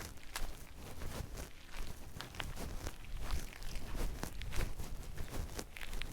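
Footsteps walking along an outdoor path, a few uneven steps a second.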